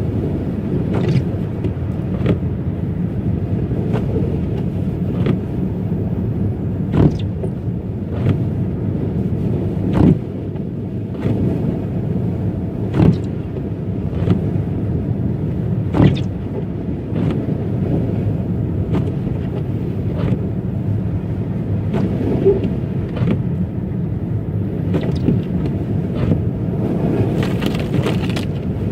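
A car driving on a rough, snowy road: steady low road and tyre rumble with short sharp knocks every second or two.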